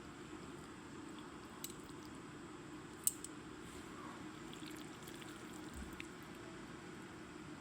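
Faint kitchen handling while creamy fettuccine is served onto plates: soft wet squishing of sauced noodles and a few light utensil clicks, the sharpest about three seconds in.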